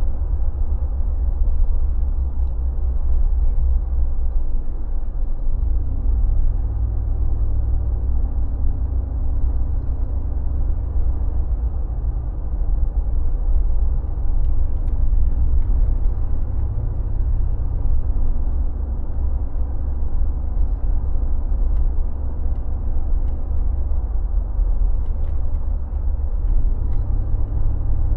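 Mercedes G 36 AMG's 3.6-litre straight-six engine running under way, over a steady low rumble, its pitch shifting slightly up and down.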